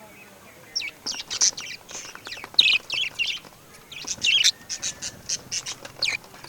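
Birds chirping: after a quiet first second, a quick run of short, high chirps, several a second, to the end.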